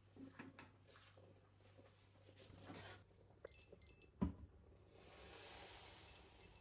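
Faint handling noises with soft clicks, a cluster of short high electronic beeps and a sharp knock about four seconds in, then a soft hiss for a second or so.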